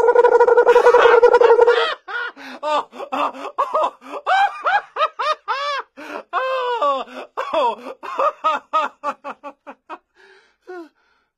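A loud, steady held tone for about two seconds, then a long run of rapid, high-pitched laughter, quick 'ha-ha' syllables each rising and falling in pitch, that thins out and fades near the end.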